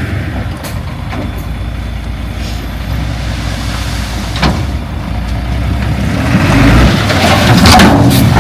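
Heavy diesel engine of an earthmoving machine running with a steady low rumble, growing louder and rougher about six and a half seconds in. There is a sharp click about four and a half seconds in.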